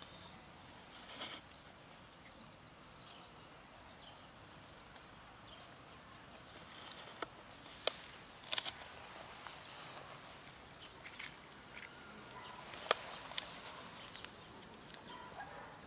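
Small birds chirping in short, arched calls, in two clusters: one a couple of seconds in and one about halfway. A few sharp clicks sound now and then over faint outdoor background noise.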